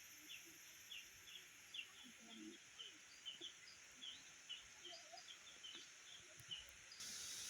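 Faint outdoor ambience: small birds chirping repeatedly, a few short chirps a second, over a steady high-pitched hiss. About seven seconds in, a louder, even hiss cuts in.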